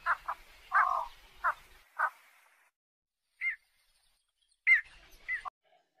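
Bird calls: a quick run of short, harsh calls over the first two seconds, then after a pause a few more short calls near the end.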